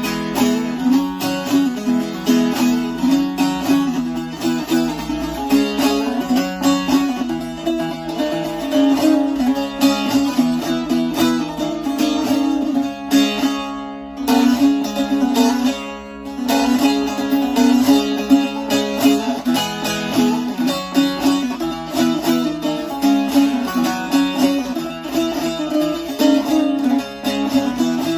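Short-neck bağlama (saz) with a carved mulberry bowl and spruce top being played: a fast run of plucked notes, with a short lull about halfway through.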